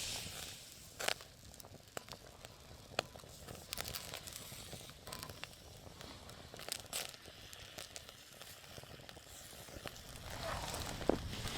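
Wood campfire crackling, with scattered sharp pops at irregular intervals.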